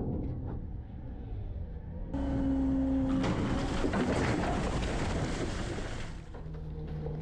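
Garbage truck running while it packs garbage: a loud mechanical stretch starts about two seconds in with a brief steady whine, and eases to a lower steady hum near the end.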